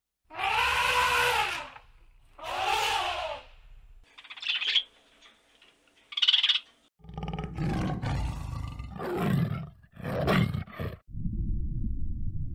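A run of animal calls: two drawn-out calls that rise and fall in pitch, then about seven seconds in, a series of deep, rough roars, followed by a steady low rumble.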